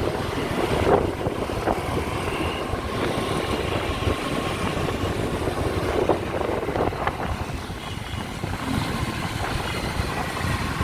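Motorbike running along at riding speed, heard from the pillion seat: a steady rumble of engine and road noise.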